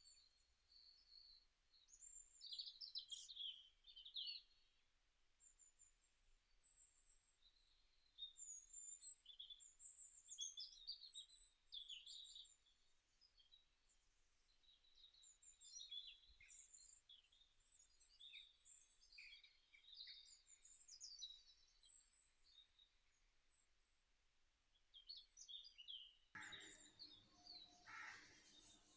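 Faint birdsong: small birds chirping and twittering in short, scattered phrases.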